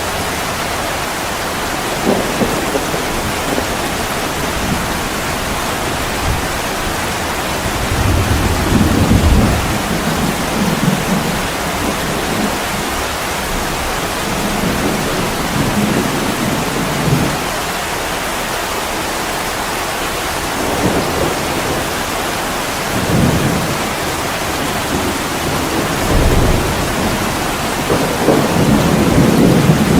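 Heavy rain pouring on an attic window, a steady hiss, with deep rumbles swelling up several times.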